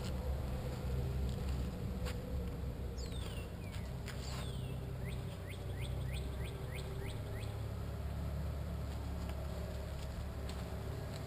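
A songbird sings a few seconds in: two long falling whistles followed by a quick run of about ten short falling notes, over a steady low background rumble with a couple of faint clicks.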